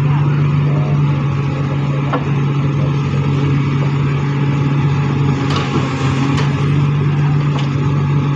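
Heavy machine engine running steadily with a constant low hum, with a few faint clicks in the middle and latter part.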